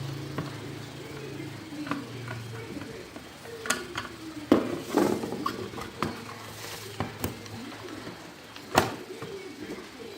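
Sharp clicks and knocks of a plastic light dimmer being unscrewed and opened by hand, the loudest about four and a half and nine seconds in.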